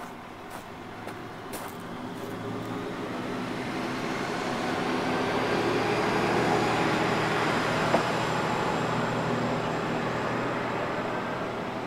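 Isumi Railway diesel railcar running past on the line, growing louder to a peak about six or seven seconds in, then fading slowly as it moves away.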